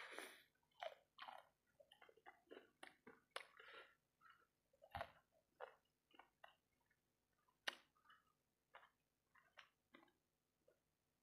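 Close-miked chewing of sauce-covered fried rice balls: quiet, irregular wet mouth smacks and clicks with soft bites.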